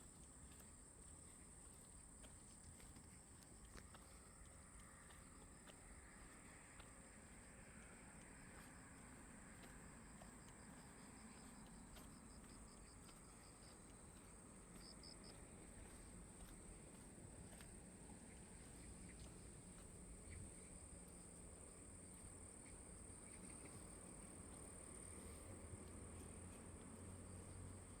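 Faint, steady high-pitched chorus of insects, with a brief higher trill around the middle.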